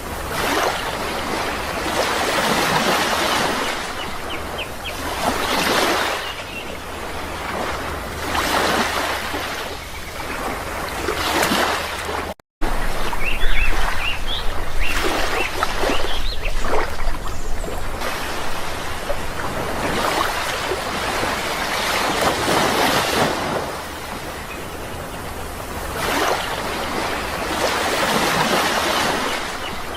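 Sea surf washing ashore in repeated swells, each rising and falling over a few seconds, with a few faint bird chirps. The sound cuts out for an instant about twelve seconds in.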